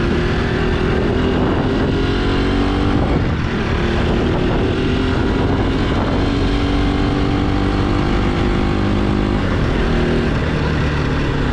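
Motorcycle engine running steadily on the move, its note shifting slightly a few times, over a constant low rumble.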